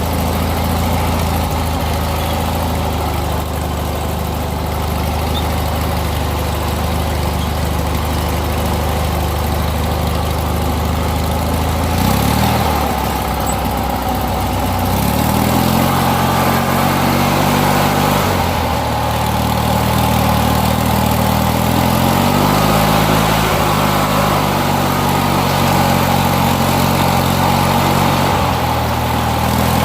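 Opposed-twin engine of a Craftsman mudmower (modified riding lawn mower) running under way. It holds steady for about twelve seconds, then the revs dip and climb again several times.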